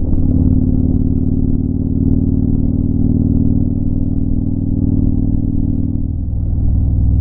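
Motorcycle engine running as the bike rides along the highway, heard from the rider's seat. Its note dips briefly about six seconds in, then picks up again.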